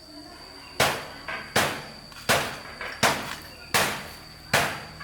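Hammer blows, six evenly spaced strikes about three-quarters of a second apart, each followed by a lighter rebound tap.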